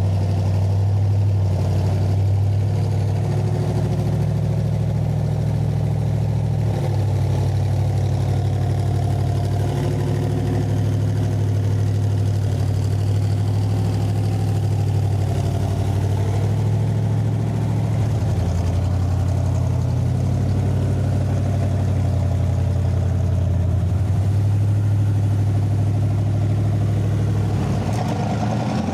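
1965 Corvette Stingray's V8 idling steadily. Right at the end its pitch begins to rise as the engine is revved.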